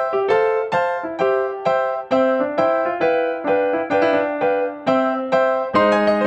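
Background music: piano or electric piano playing a simple melody of evenly spaced notes, about two to three a second, turning to fuller chords near the end.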